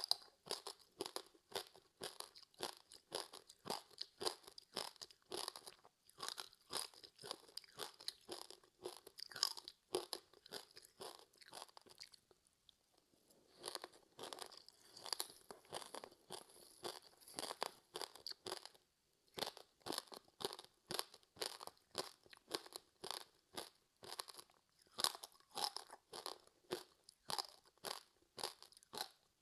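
Close-up chewing of a crispy seaweed-wrapped rice snack: rapid, crackly crunches as the dry seaweed coating breaks between the teeth, pausing briefly about twelve seconds in.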